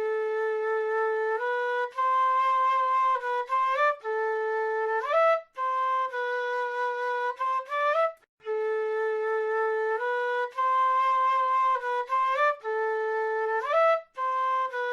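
South American flute playing a slow solo melody: held notes with quick rising runs at the ends of phrases, with brief pauses between phrases.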